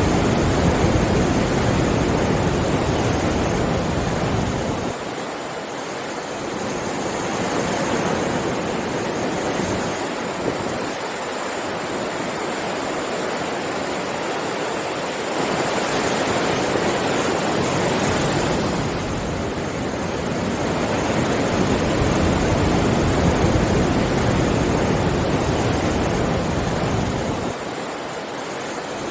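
Ocean surf: waves breaking and washing up the beach in a continuous rush that swells and ebbs, with loud surges in the first few seconds, about halfway through and again later, and quieter lulls between them.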